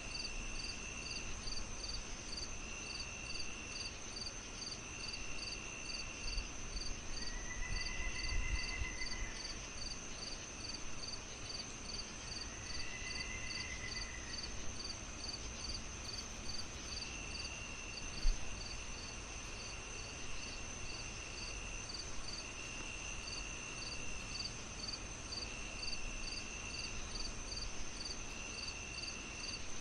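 A night insect chorus of crickets: one chirps in quick regular pulses, about two a second, over a continuous high trill, while another repeats longer calls every couple of seconds. A soft low rumble runs underneath, and there is one sharp knock about two-thirds of the way in.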